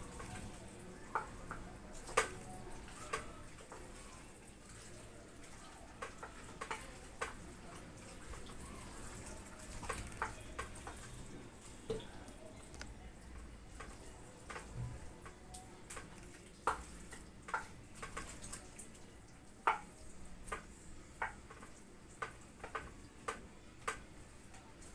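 Hands working raw chicken pieces and potatoes in a baking tray with spices and lemon: scattered light clicks and knocks, irregular and a second or two apart, over a faint low hum.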